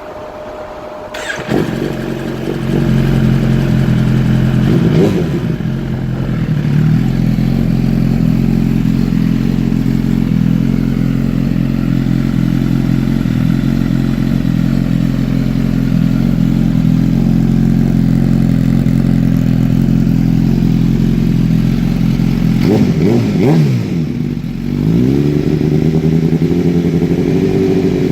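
2017 Suzuki GSX-R1000's inline-four engine through a full M4 exhaust with a full-size muffler: it starts about a second in and settles into a steady idle, with a quick throttle blip a few seconds later. Near the end it is revved several times, the pitch rising and falling with each blip.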